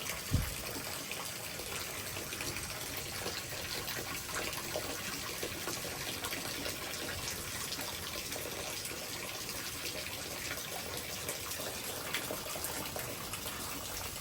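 Steady thunderstorm rain falling, an even hiss of rain. A brief low thump comes about half a second in.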